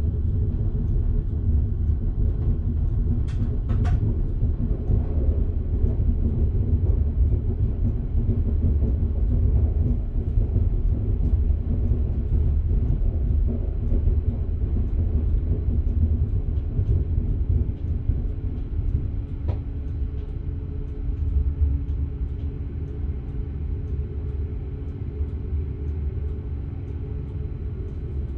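Electric passenger train heard from the driver's cab while running: a steady low rumble with a level hum over it, and a few brief clicks about three to four seconds in.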